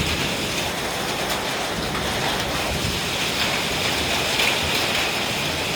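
Hailstorm: heavy rain and hail pelting down in a steady dense hiss, with scattered sharp ticks of hailstone impacts.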